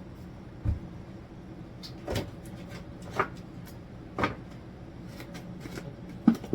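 About five scattered knocks and clunks of things being handled in a kitchen, typical of cupboard doors shutting and containers being set down, over a steady low hum.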